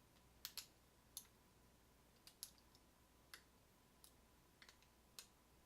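Faint, irregular metal clicks, about nine in all, of a hook pick working the pin stacks of a Schlage deadbolt cylinder while it is single-pin picked under tension.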